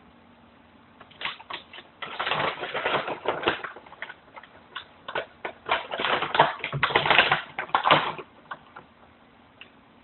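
Husky puppy playing: a rapid clatter of clicks and scrapes, in two dense spells with scattered clicks before, between and after.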